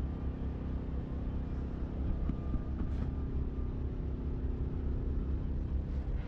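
Steady low engine rumble with an even drone, like a diesel truck idling.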